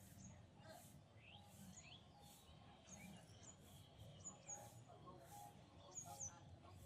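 Faint chirping of small birds: short, high, falling chirps and a few quick rising calls, over a soft outdoor background with a high hiss that pulses about once or twice a second.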